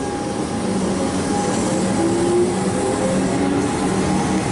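Electric suburban train pulling away along the track: a steady rumble of wheels on rail under a constant motor hum, with a brief rising whine about two seconds in.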